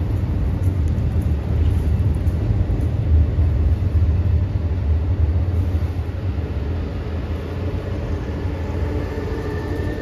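Amtrak Acela Express trainset crossing a railroad bridge at speed, a steady deep rumble of wheels on the track and bridge. Near the end a higher whine joins as the power car goes by.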